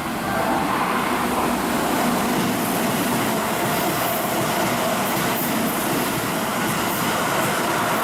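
Keihan 3000 series electric train running, a steady rail rumble with a faint steady motor tone.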